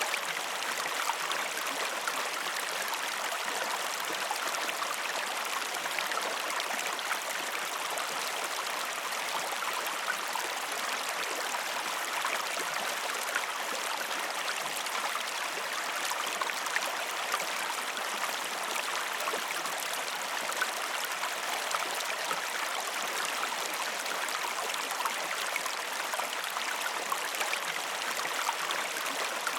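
Waterfall water rushing and splashing in a steady, unchanging hiss.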